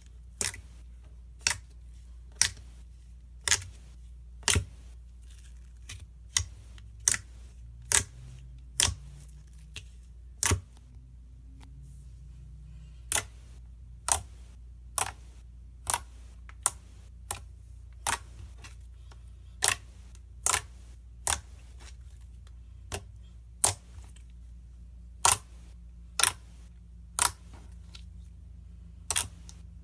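A series of sharp clicks at uneven intervals, roughly one a second with a short pause about halfway, over a steady low hum.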